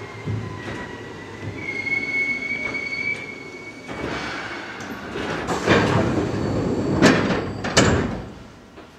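Tokyu 8500 series electric train running, heard from its motored front car, with a high thin whine that swells about two seconds in. Several loud knocks follow as the wheels clatter over track joints, and then the running noise fades away near the end.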